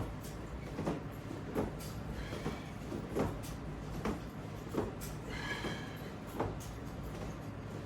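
Rhythmic soft knocks about every three-quarters of a second, with a couple of short squeaks, from the latch bar's resistance straps and their hardware working through repeated sit-ups.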